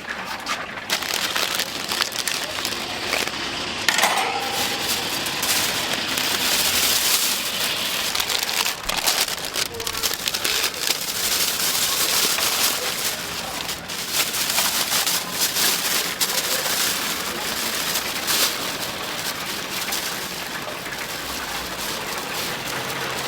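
Chicken deep-frying in hot oil: a steady, dense sizzle with many crackles.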